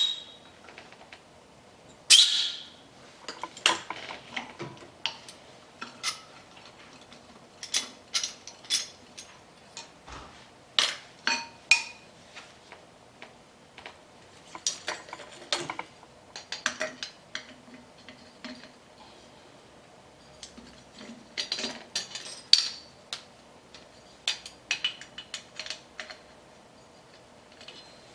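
Metal tools and small brake caliper parts clinking and tapping against each other, irregular light clicks with a few louder ringing metal clinks, the loudest about two seconds in.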